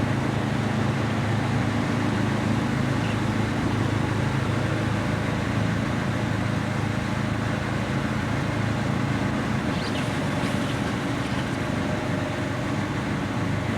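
Engine running steadily at a constant speed, with a low, even hum.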